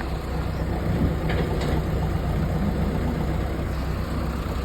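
Heavy diesel engine of a mud-rescue machine running at a steady speed, a continuous low engine sound with no change in pitch.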